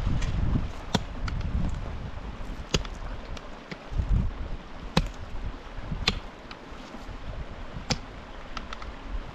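Wind buffeting the microphone in uneven gusts, with a handful of sharp clicks or knocks at irregular intervals.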